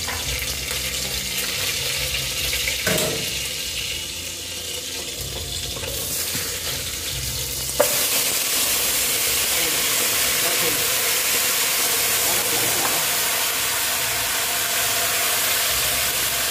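Garlic sizzling in hot oil in an aluminium pot. About eight seconds in, marinated duck meat goes into the pot and the sizzle jumps suddenly louder, then holds as a steady hiss while the meat fries and is stirred with a wooden spatula.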